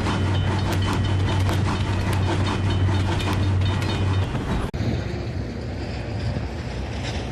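Express passenger train, led by a ZCU-30 diesel-electric locomotive, passing at speed: a steady low rumble with a regular clatter of wheels over rail joints. About two-thirds of the way through this breaks off suddenly into a quieter rushing noise with wind on the microphone.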